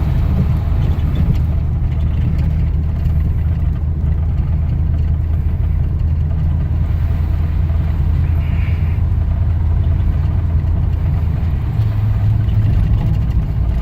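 A 355 cubic-inch V8 breathing through long-tube headers, 2.5-inch pipes and Dynomax Super Turbo mufflers, heard from inside the car's cabin with the windows up while driving: a steady, mellow low exhaust drone. Near the end the pitch rises slightly as the engine picks up revs.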